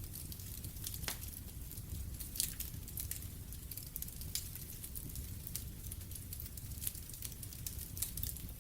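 Fireplace fire crackling: scattered sharp pops and snaps over a steady low rumble, with one louder snap about a second in.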